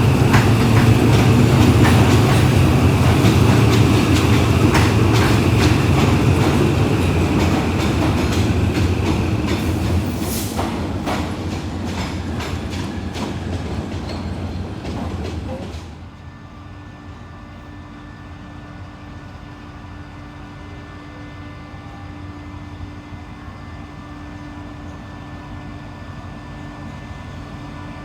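A diesel train rumbling past, its wheels clacking over the rail joints as the sound slowly fades. About sixteen seconds in the sound drops abruptly to a quieter steady hum with a few steady tones.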